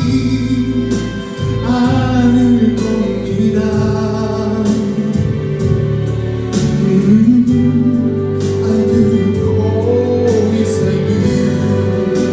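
Live performance of a wedding ballad: a solo voice singing a long, wavering melodic line over steady instrumental accompaniment.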